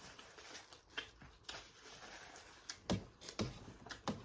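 Close-miked chewing of crisp salad greens: irregular wet clicks, crackles and mouth smacks, with a few heavier crunches about three seconds in.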